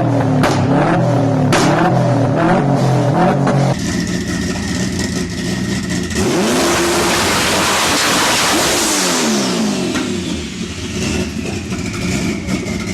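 A car engine revving hard, with about four sharp exhaust backfire bangs. About four seconds in, it cuts to another loud-exhausted car at full throttle, whose engine note sweeps up and then down.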